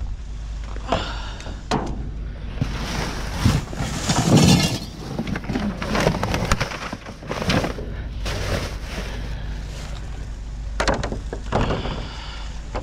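Rummaging through trash in a dumpster: items being shifted, knocking and rustling in irregular clatters, loudest about four seconds in.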